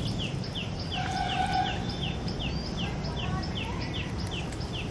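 A bird calling over and over, a short falling note repeated about three times a second, with a lower drawn-out call from another bird about a second in, over a steady low background rumble.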